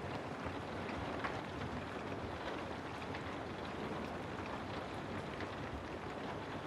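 Steady rain ambience: an even hiss of falling rain with scattered small ticks of drops hitting a surface.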